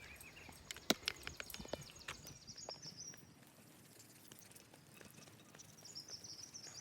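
Footsteps on a wooded trail, snapping and crunching on the forest floor, loudest about a second in, with high chirping in the background twice.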